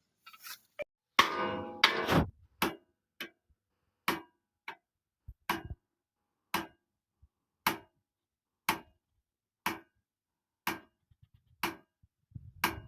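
A loud clatter about a second in, then sharp, evenly spaced knocks, about one a second, each ringing briefly.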